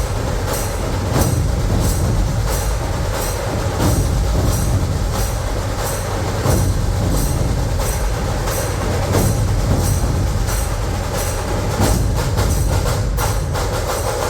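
Dhol-tasha ensemble drumming a steady, driving beat: a deep rumble of the big dhols under sharp, regular strokes, about three every two seconds, swelling every few seconds. It breaks into a faster flurry of strokes near the end.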